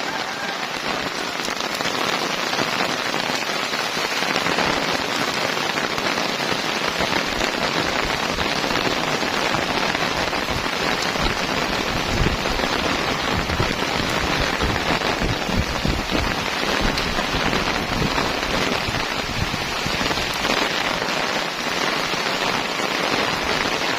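Heavy rain pouring steadily, with low gusts of wind rumbling in the middle stretch.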